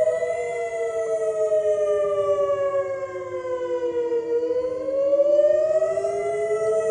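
Outdoor warning siren wailing as a two-note chord, its pitch slowly sagging and then rising again over about six seconds.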